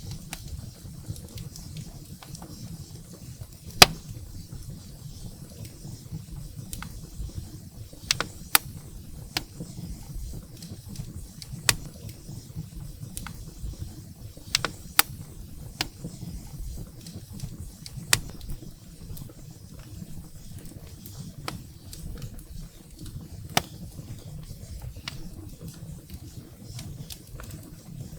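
Firewood burning in a fireplace: a low steady rumble of flame with scattered sharp crackles and pops, the loudest about four seconds in.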